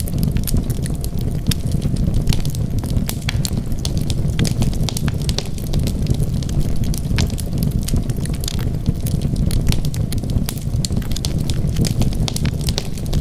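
Wood fire burning with a steady low roar and frequent sharp crackles and pops.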